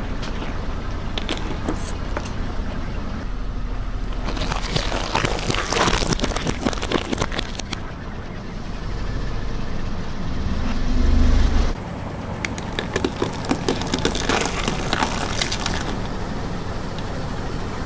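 A car engine running with a steady low hum while a tyre rolls over and crushes brittle objects, giving two long spells of dense crackling and crunching. Between them comes a loud, low surge that stops abruptly.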